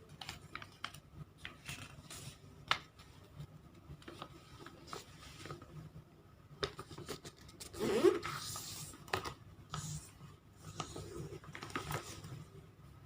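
Origami paper being folded into a triangle and creased by hand: scattered light taps and paper rustles, with a louder sliding rustle about eight seconds in.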